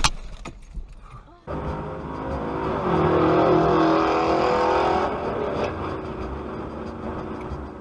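The fading tail of a loud noise cuts off suddenly after about a second and a half. A car engine then runs under road noise, its pitch rising a little and holding steady for a couple of seconds before easing off.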